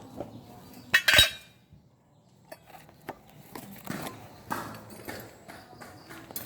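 Metal clinking and knocking as hard parts are handled: one loud clatter about a second in, then scattered lighter clicks and clinks, with no motor running.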